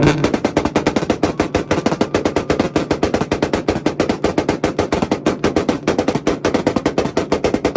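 Honda car's engine held on a two-step launch-control rev limiter, the exhaust firing a rapid, even machine-gun string of bangs that cuts off suddenly near the end.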